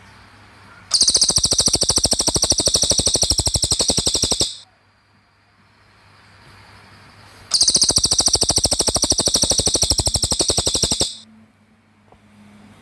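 Small songbird giving a very fast, high-pitched trilled song in two long bouts of about three and a half seconds each, with a pause between.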